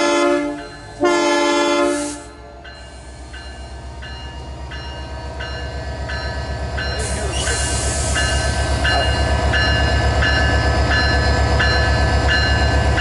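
Canadian Pacific diesel locomotive CP 2246 sounds two horn blasts as it starts to move off. Its engine then throbs louder and louder as it pulls away under power, with the locomotive bell ringing steadily and a brief hiss of air about seven seconds in.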